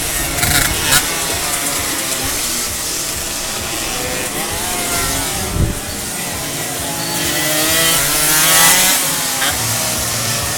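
Car engines revving at a motorsport event, their pitch rising and falling, with a louder swell of engine noise a little past the middle.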